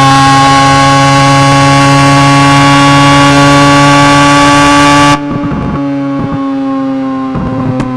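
1.3-litre rotary engine held at steady high revs with a loud, horn-like tone. About five seconds in it suddenly gets quieter and duller, and the pitch then slowly falls as the revs come down.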